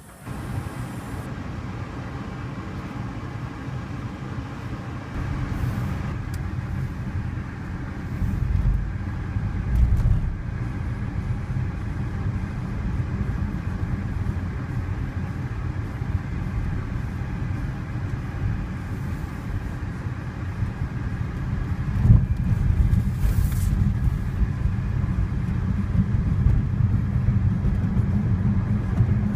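BMW i3 electric car driving: steady road and tyre noise that grows gradually louder, with a few low thuds.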